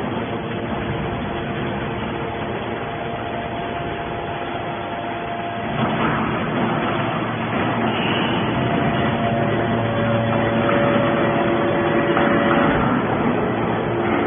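Scrap metal baler running: a steady machine noise with several held tones, growing louder about six seconds in.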